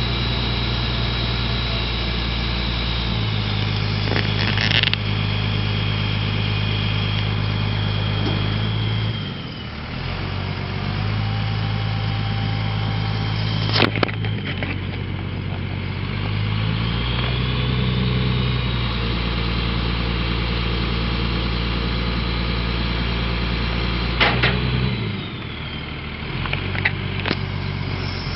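Crane truck's engine running, its speed stepping up and down several times as the hydraulic crane is worked, with three sharp metallic clanks along the way.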